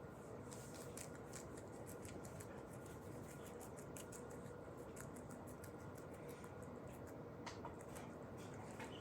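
Faint, irregular soft clicks and scratchy ticks over a steady low hum.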